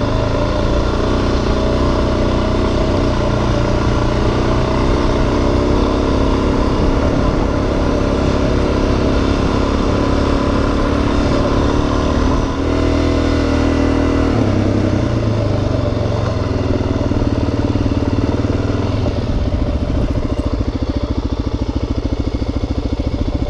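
Suzuki DRZ400 single-cylinder four-stroke dual-sport engine running on a dirt trail. The engine note shifts a couple of times about halfway through.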